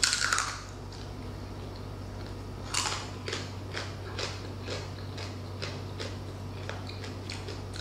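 A crunchy bite into the deep-fried pork skin of crispy pata, then close-miked chewing crunches, a few a second.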